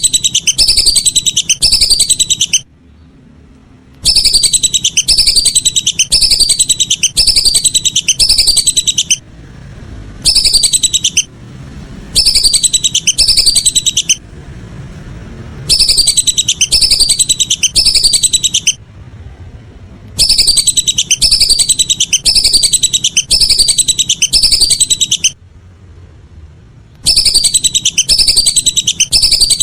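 Whistling duck (belibis) calls, loud: quick high whistled notes, each sweeping downward, repeated in bursts of two to ten notes with short breaks between bursts. The notes repeat identically, as a looped call recording used to lure the birds.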